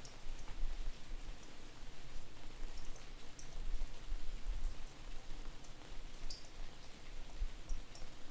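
Steady rain with scattered individual drops ticking, under a low, distorted rumble of wind on the microphone.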